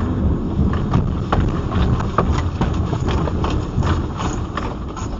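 Earthquake shaking: a heavy low rumble with irregular knocks and rattles throughout.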